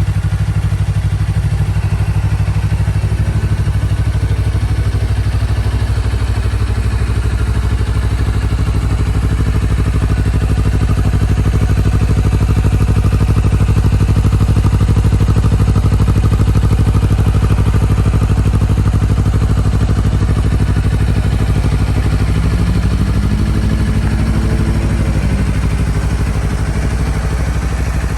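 Honda CBR250RR motorcycle engine running at a steady idle, with only a slight swell and dip in engine speed; the crashed bike's engine starts and runs.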